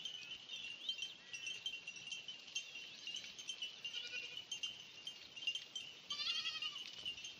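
A goat bleats once, a short high call about six seconds in, over a steady high-pitched background drone.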